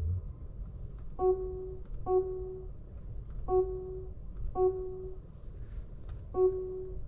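Electronic warning chime in the Lexus NX350h's cabin: one identical note sounding five times at uneven intervals, each about half a second and quickly fading, over low road rumble.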